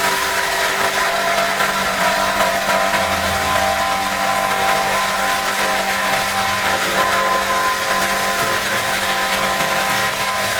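A motor-driven cleaning machine running steadily, with a constant hum and a hiss of spray or air over it.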